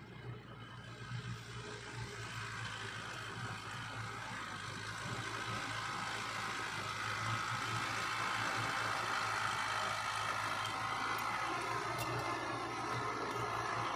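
Diesel engine of a heavy earthmoving machine running steadily, growing louder over the first half and then holding level.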